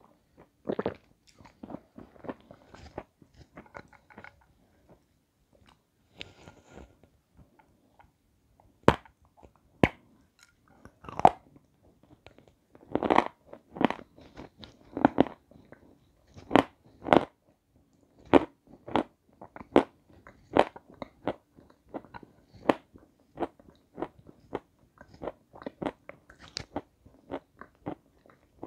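Close-miked chewing and biting on hard, crunchy white chunks: a run of sharp, irregular crunches, loudest through the middle, with softer chewing in between.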